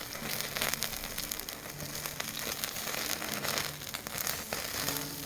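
Wood or charcoal fire crackling, with irregular sharp pops and snaps.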